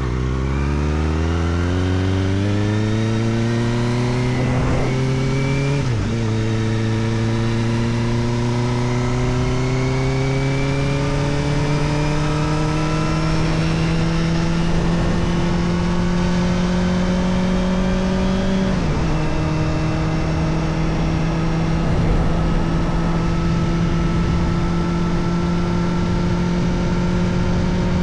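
Kawasaki Ninja ZX-4RR's inline-four engine through an Arrow Indy Race Evo titanium exhaust with the dB killer fitted, accelerating in pitch from low revs. It upshifts about six seconds in and again about two-thirds of the way through, with the pitch climbing slowly between the shifts and barely rising at the end.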